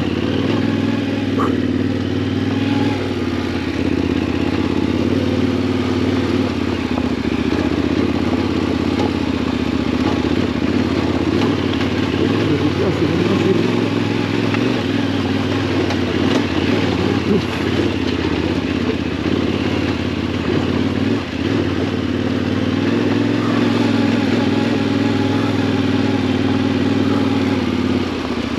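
Yamaha Ténéré 700's parallel-twin engine running steadily while riding, over a broad rushing noise, with a brief dip in level about two-thirds of the way through.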